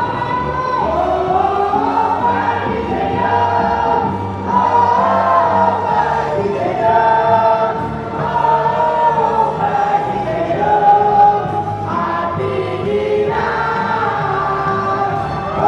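Music with a group of voices singing a melody together over a steady bass line.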